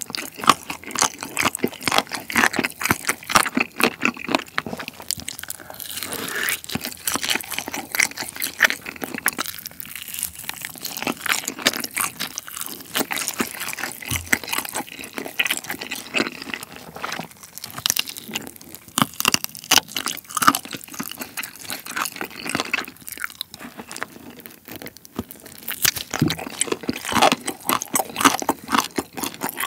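Close-miked chewing and biting of wide Chinese glass noodles and mala-sauced chicken, a dense run of quick clicks and crunches.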